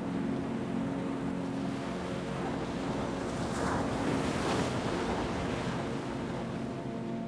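Ocean wave surging in and breaking, its hiss swelling to a peak about halfway through and easing off again, over a steady low drone of sustained tones.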